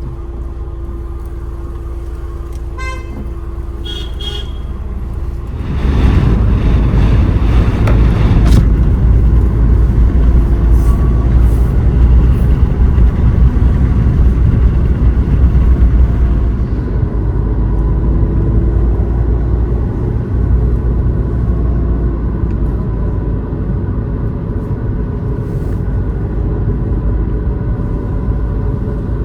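Motor vehicle driving with steady engine and road rumble, which grows louder about six seconds in and eases again later. A horn sounds one long toot over the first five seconds.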